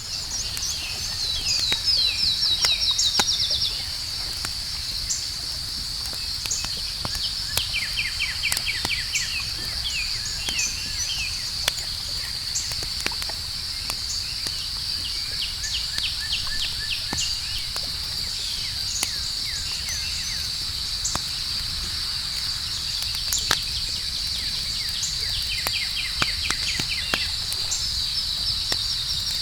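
Campfire crackling with scattered sharp pops, over a steady high-pitched drone of night insects. Bursts of rapid chirping come and go three times.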